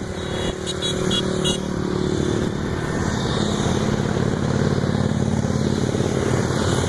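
Several motorcycle engines running together as a group rides, the sound swelling slightly over the few seconds.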